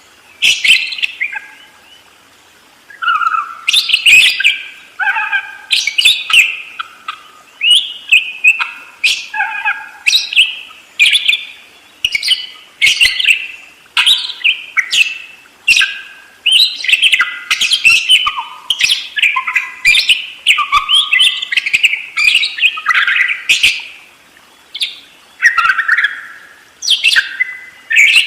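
Budgerigars chattering and warbling without let-up: a dense, rapid run of short chirps and scratchy warbled notes, the vigorous continuous song that keepers call 'ngerol'.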